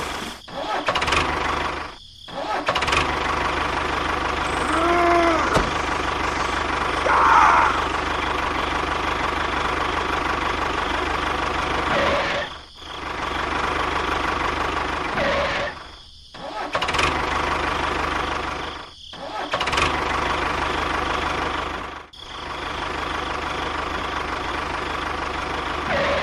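Tractor engine running steadily, broken by several short dropouts that sound like edit cuts.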